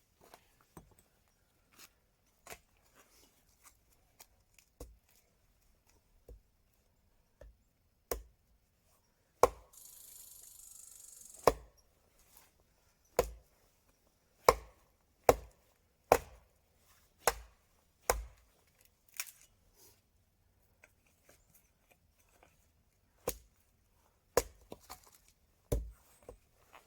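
A run of sharp, irregular wooden cracks and knocks, some loud and some faint, with a brief hiss about ten seconds in.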